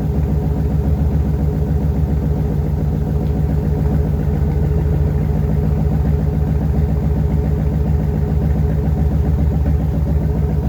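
1995 Chevrolet Corvette C4's LT1 5.7-litre V8 idling steadily on a cold engine, heard from outside the car.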